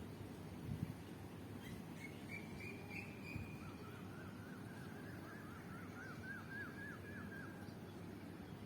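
Birdsong: a short high trill, then a run of quick repeated chirps, over a steady low background rumble.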